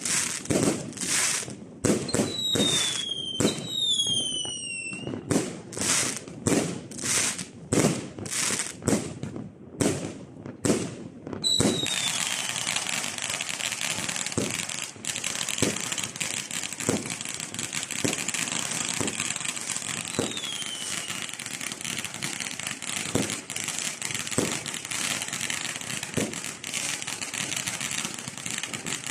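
Fireworks going off: a run of sharp bangs about two a second, with a few whistles falling in pitch, then from about halfway a dense, continuous crackling with one more falling whistle.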